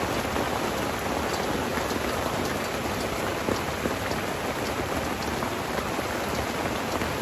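Steady rain falling on a rooftop tent, heard from inside the tent: an even hiss with scattered drops ticking on the fabric. It is a little noisy.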